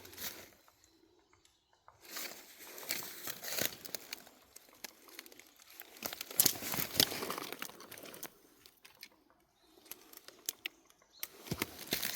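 Crunching and rustling of dry leaf litter in three bouts, with sharp snaps and crackles among them.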